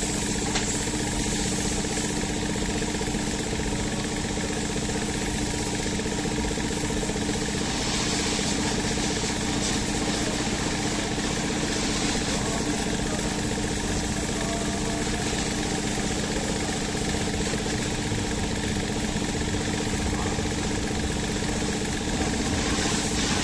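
A motor or engine running steadily at an even pitch, a continuous hum with some hiss.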